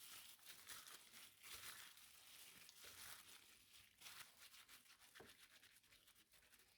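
Faint wet squishing and scraping of raw chicken strips being mixed with fresh cream and spices in a bowl, in many small irregular crackles.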